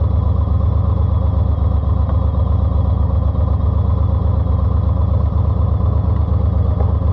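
Eluder GT engine running at a steady idle through a TAB exhaust with 2.5-inch baffles: a deep, evenly pulsing exhaust note with no revving.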